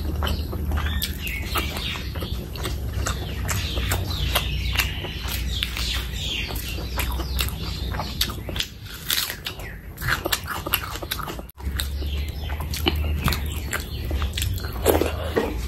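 Close-miked eating: chewing with many wet mouth clicks and smacks, and crunching bites of raw onion, over a steady low hum.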